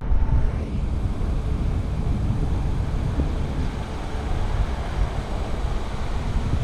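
Steady wind rumble on the microphone from riding a bicycle at speed.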